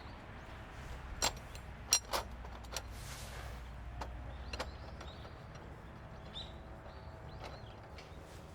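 A handful of sharp clicks and knocks, about five spread over the first five seconds, over a low steady background.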